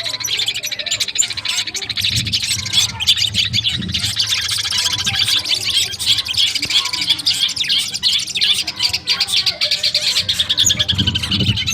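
Long-tailed shrike (cendet) calling in a dense, harsh, chattering song with fast trills, recorded as tutor audio for training songbirds.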